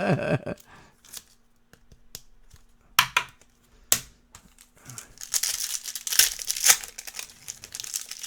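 Trading card pack wrapper being torn open and crinkled, starting about five seconds in, after two sharp snaps.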